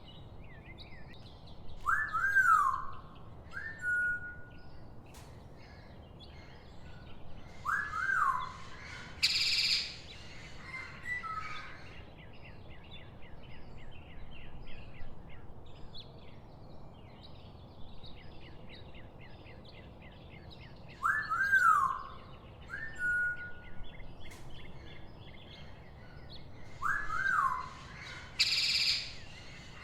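Birds calling: clear whistled notes that rise and fall, a short held whistle, fast chirping trills, and a harsher short call twice, over a steady faint background hiss. The same sequence of calls comes round again about every twenty seconds.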